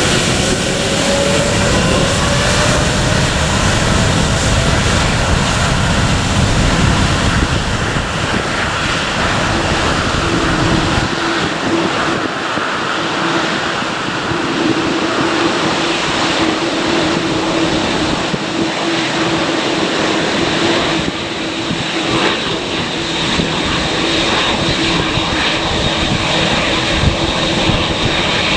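Departing airliner's engines at takeoff power, rising in pitch over the first few seconds and then running as a loud, steady drone.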